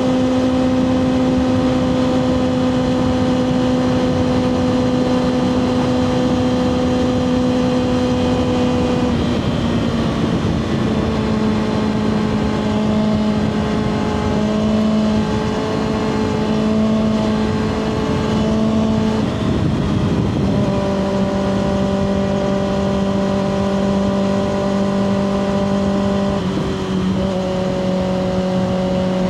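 2024 Kawasaki ZX-6R's 636 cc inline-four running through a Two Brothers slip-on exhaust, holding steady revs while riding, with wind noise. The engine note drops a little three times, about a third of the way in, about two-thirds in, and near the end.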